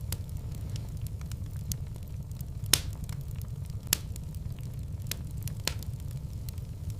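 Wood fire crackling in a fireplace over a steady low rumble, with scattered sharp pops, two louder ones a little before and after the middle.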